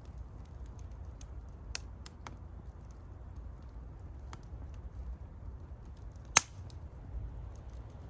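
Wood campfire burning, crackling with scattered sharp pops over a low steady rumble, one louder pop about six and a half seconds in.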